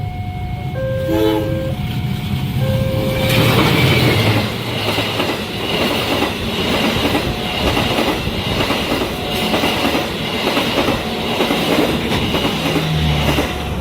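An electronic level-crossing alarm sounds its repeating tones over a low rumble. About three seconds in, a train reaches the crossing at speed, and its wagons pass with a steady rhythmic clatter of wheels over rail joints. The alarm stays faintly audible underneath.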